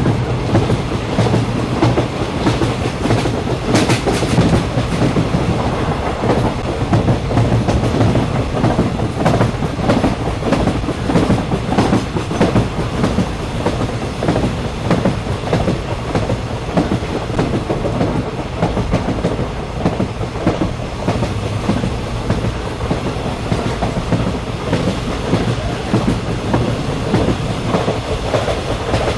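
Train running, heard from inside a passenger carriage: a steady rumble with the wheels clicking over the rail joints, and a sharper knock about four seconds in.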